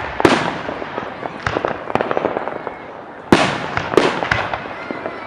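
Fireworks bursting overhead: two big bangs, one just after the start and one about three seconds in, each trailing off in an echo. Smaller pops and crackling fill the time between, and another bang comes about four seconds in.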